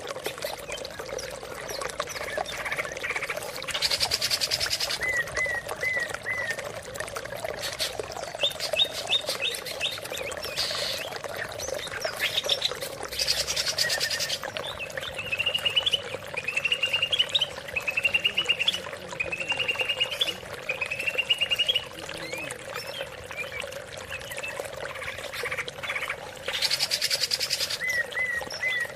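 Green leafbird (cucak ijo) singing a varied song of short repeated whistled phrases and quick chirping trills, over a steady trickle of running water.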